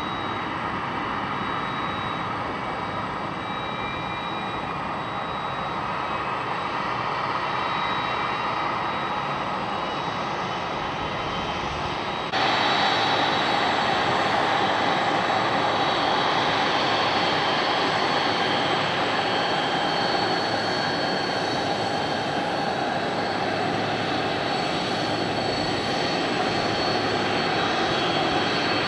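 Jet airliner engines running: a steady roar with a high whine. About twelve seconds in it cuts abruptly to a louder, brighter jet sound with a stronger whine.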